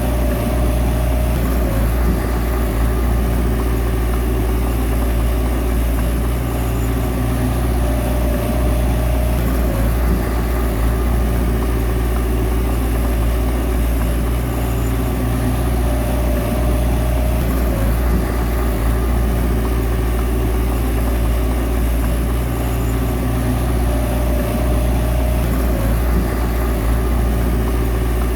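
A bulldozer's diesel engine running steadily, its low hum holding at an even level throughout.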